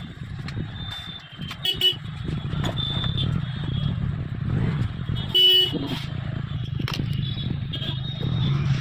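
Road traffic running steadily, with vehicle horns tooting briefly, the loudest about five and a half seconds in.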